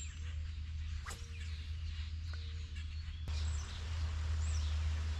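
Birds chirping outdoors, with short falling chirps mostly in the second half, over a steady low rumble and a couple of single clicks.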